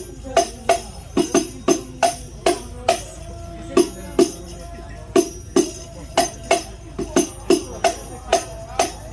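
Hadrah percussion: hand-struck frame drums (rebana) with jingles, played in a quick, syncopated rhythm of sharp strikes, each with a short ringing drum tone.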